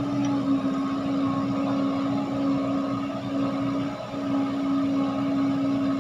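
Heavy diesel engine of earth-moving machinery running steadily at a constant pitch, with a brief dip about four seconds in.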